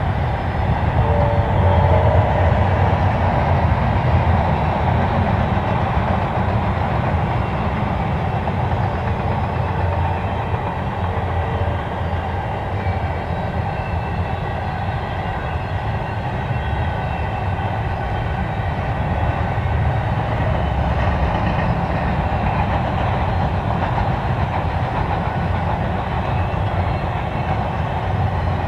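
Double-stack container cars of a freight train rolling past: a steady rumble of steel wheels on the rails.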